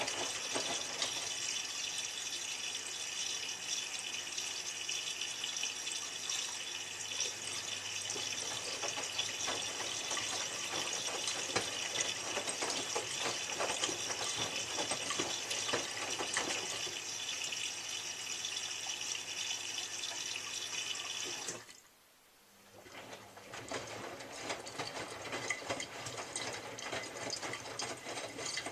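Miele W3744 washing machine taking in water, a steady rushing hiss. About three quarters of the way through it cuts off suddenly. After a second's pause the machine starts again with a different, quieter mechanical sound.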